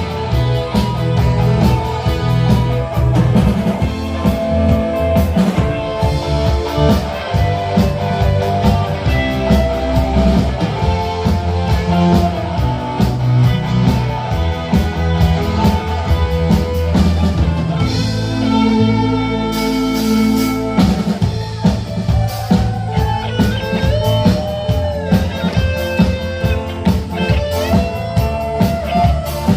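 Band playing an instrumental rock number, a guitar carrying the melody over drum kit and bass. About eighteen seconds in the drums drop out for a few seconds of held notes, then the beat comes back with bending lead-guitar lines.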